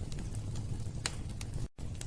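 Wood fire burning in a fireplace: a steady low rumble with a few sharp crackling pops. The sound cuts out for an instant near the end.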